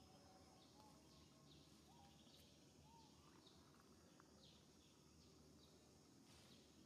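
Near silence: faint outdoor ambience with a series of short, faint, high falling chirps from distant birds.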